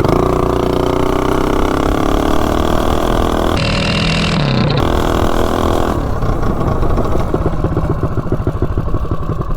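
Predator 212 single-cylinder four-stroke engine with a high-compression Shred Head cylinder head, pulling a Coleman CT200U-EX mini bike at full throttle from a standing start, its pitch climbing as it accelerates. About six seconds in the throttle comes off and the engine drops to a slower, pulsing run.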